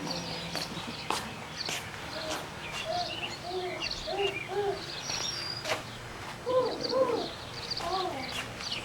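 Young children's high voices chattering and calling out in short rising-and-falling bursts, with small clicks and knocks of handling throughout; the loudest calls come around six and a half to seven seconds in.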